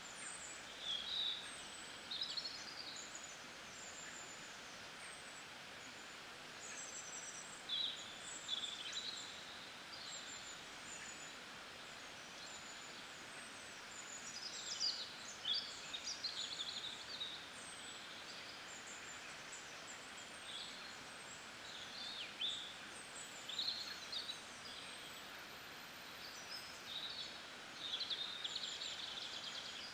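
Birds chirping and twittering in short scattered phrases over a steady, even background hiss of outdoor ambience.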